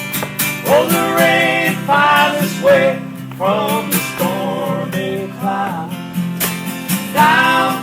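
Live acoustic band music: strummed acoustic guitar over a steady low accompaniment, with a wavering melody line and light percussive hits.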